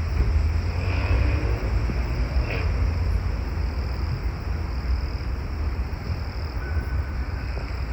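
Outdoor ambience with a steady low rumble and hiss, with a couple of faint calls about a second and two and a half seconds in.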